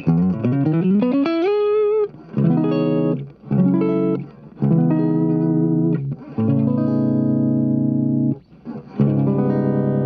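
Clean electric guitar played through a Dolamo compressor pedal, with no grit in the tone. It opens with a slide up into a note with vibrato, then strummed chords with short breaks between them, the last chords left to ring.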